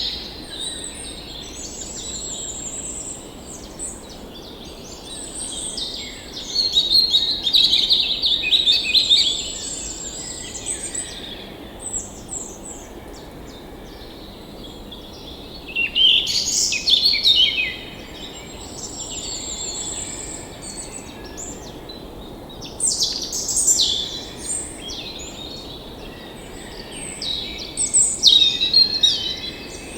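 Songbirds singing and calling, with bursts of louder song every few seconds over a steady low background hiss.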